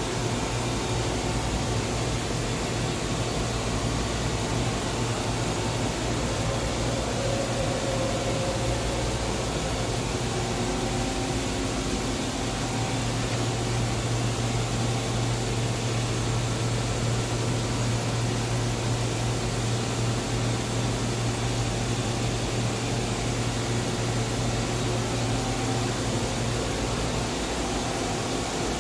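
1995 Mazak VTC-16A CNC vertical machining center running: a steady mechanical hum with faint higher tones that come and go.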